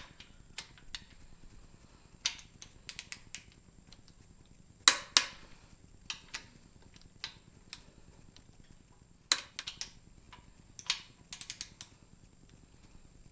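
Click-type torque wrench clicking over as each main bearing cap bolt reaches torque: two sharp clicks about four seconds apart. Between them come runs of lighter ratchet ticks as the handle swings back.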